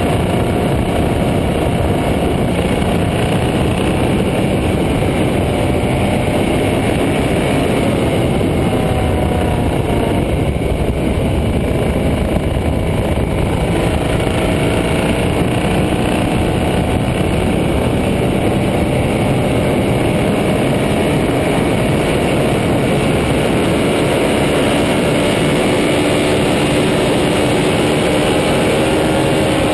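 KTM 1290 Super Duke R's V-twin engine running steadily under a dense, even rush of noise. Its note sags a little, then climbs slowly from about halfway through.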